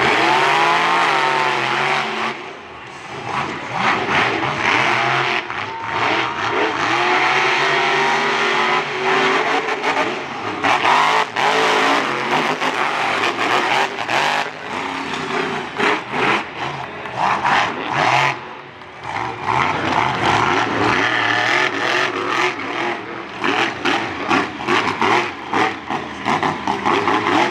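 Monster truck engines revving hard in a race, the pitch climbing and falling as the trucks accelerate and back off, loud, with a couple of short dips.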